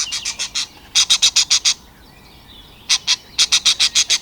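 A bird calling in rapid runs of short, high chirps, about ten a second, in three bursts with short pauses between them.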